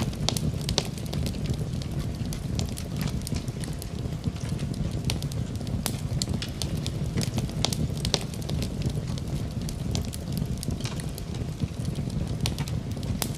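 Fire burning in a fireplace, crackling and popping in many small, irregular snaps over a steady low rumble of the flames.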